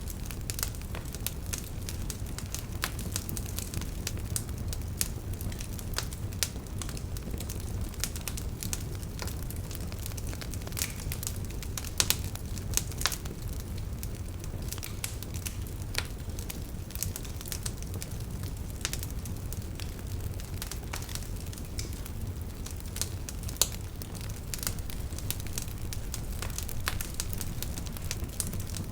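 Campfire crackling, with constant irregular pops and snaps and a few louder pops, over a steady low rush of river water.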